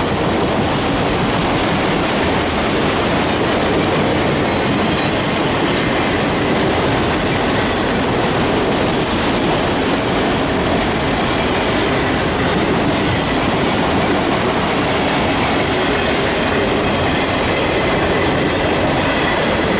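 CSX freight train M452 rolling past at close range: a loud, steady rumble and clatter of freight-car wheels on the rails.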